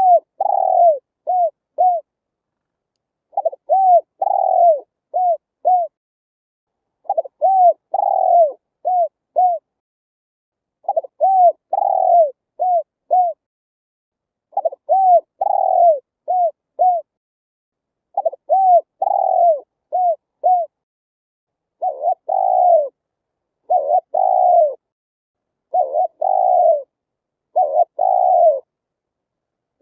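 Spotted dove cooing: a phrase of several short, rounded coos repeated about every four seconds, the later phrases more run-together.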